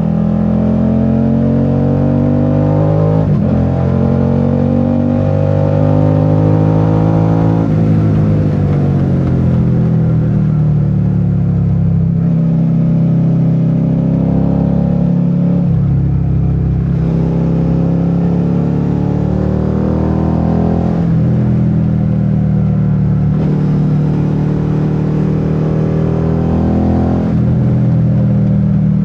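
Suzuki SV650's 645 cc V-twin engine pulling through the gears while riding: its pitch climbs, drops sharply at each upshift, then climbs again, with a stretch of falling revs as the throttle is eased off.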